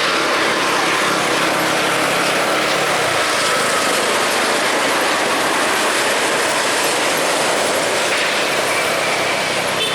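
Jet airliner engines giving a loud, steady rush of noise that holds level without a break.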